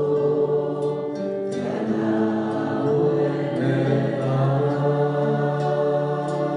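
Worship music with several voices holding long sustained notes, like a choir, over a low accompaniment.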